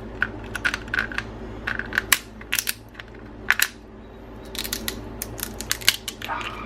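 Cooked crab shells being cracked and snapped apart: a long run of sharp, irregular cracks and clicks, with a short lull in the middle.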